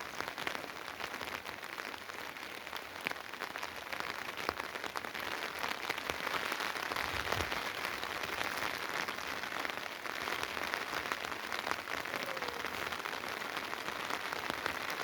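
Steady rain falling, a dense crackle of drops striking surfaces.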